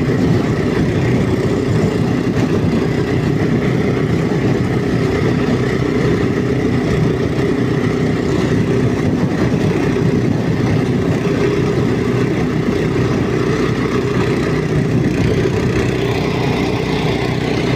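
Walk-behind tractor (motoblock) engine running at a steady speed while driving along, with no change in pitch or loudness.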